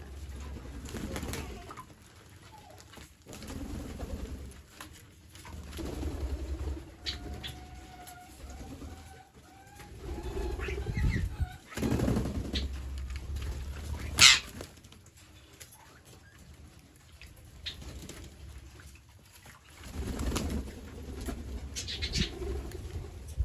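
Birds calling: low calls coming in bursts every couple of seconds, a thin wavering call near the middle, and a single sharp click a little past halfway.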